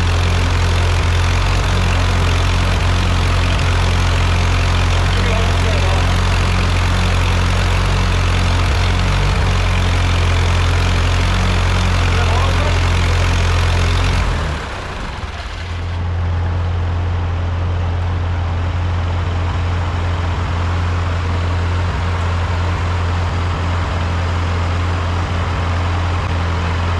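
Ford 8N tractor's four-cylinder flathead engine running steadily. About fourteen seconds in, the sound dips briefly, then carries on with less hiss.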